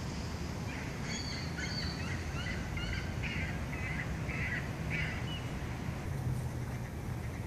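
Birds calling: a run of short calls between about one and five seconds in, over a steady low rumble.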